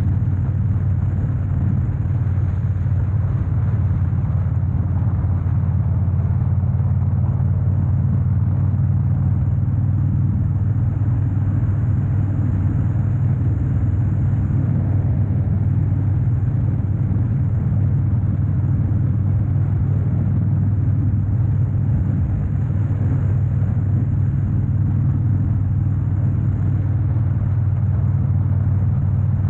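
2013 Harley-Davidson Dyna Wide Glide's 103 cubic inch air-cooled V-twin running at a steady cruise. It is a low, even rumble with road noise and no revving or gear changes.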